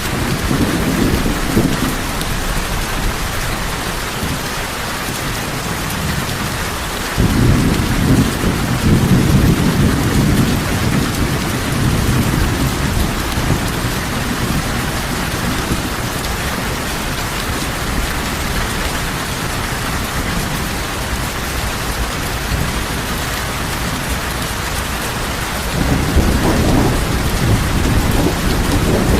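Heavy rain falling steadily, with thunder rumbling in low swells: one near the start, a louder one beginning abruptly about seven seconds in, and another near the end.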